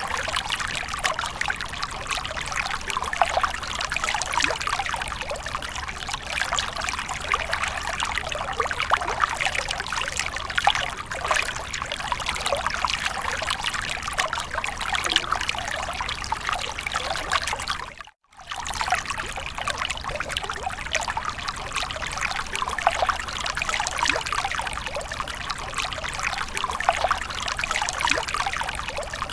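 Running water splashing and trickling continuously, a dense patter of small droplet splashes. The sound cuts out completely for a split second about two-thirds of the way through, then resumes unchanged.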